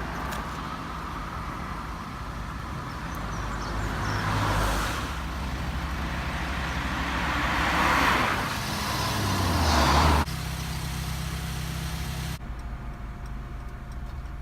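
Road traffic: vehicles passing by in three swells, over the steady hum of an engine running close by. The hum cuts off suddenly about ten seconds in.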